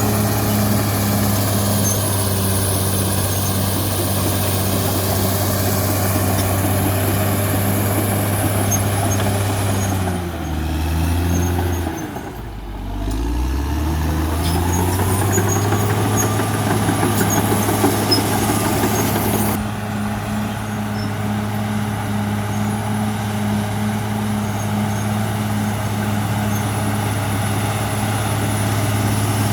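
Caterpillar D6R XL bulldozer's diesel engine running steadily. About ten seconds in, the engine speed drops for a couple of seconds, then climbs back to its working speed.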